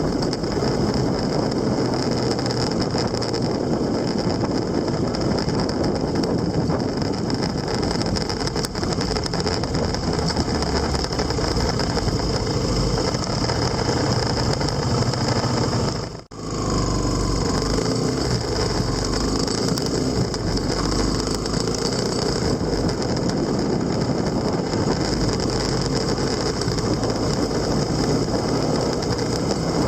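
Vehicle engine running steadily under road and wind noise while travelling, with a short drop-out about sixteen seconds in.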